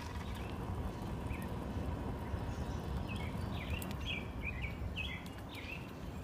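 A bird giving a quick series of short, high chirps, starting about halfway through, over a steady low rumble.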